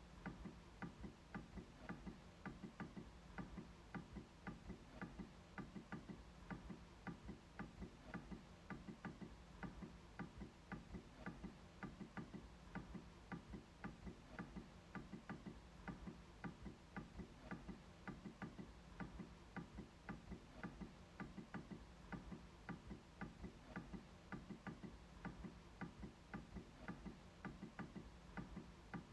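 MacBook trackpad being clicked over and over, a few faint clicks a second at a slightly uneven pace.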